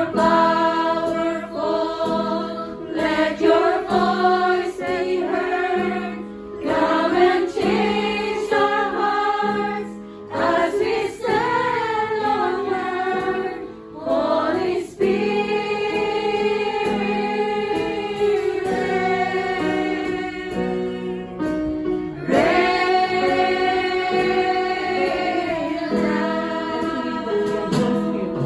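A choir singing a gospel worship song over held accompanying tones, the melody moving in sung phrases with short breaks between them.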